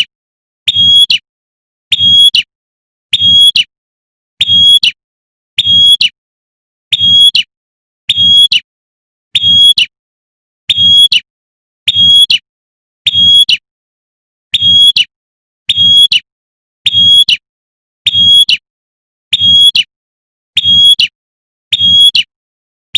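Prenjak (prinia) giving its sharp 'tembakan' call, presented as a female calling a male: one short, loud note a little more often than once a second in a steady, unchanging loop. Each note carries a low thud beneath it.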